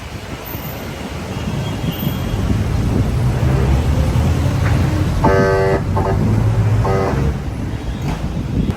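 A vehicle horn honks about five seconds in, one longer blast then two short ones, over a steady low road and engine rumble with wind on the microphone.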